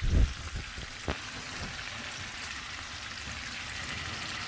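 A couple of low knocks from handling cookware, then a steady hiss of food cooking on the stove.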